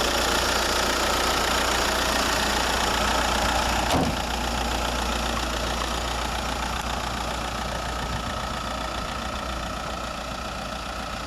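Škoda Superb's 1.9 TDI PD four-cylinder diesel engine idling steadily. A single knock about four seconds in, after which the engine sound is a little quieter.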